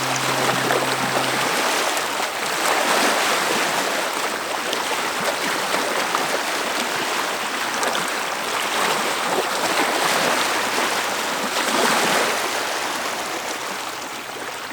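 Fast-flowing mountain water rushing steadily, a dense, even whitewater hiss.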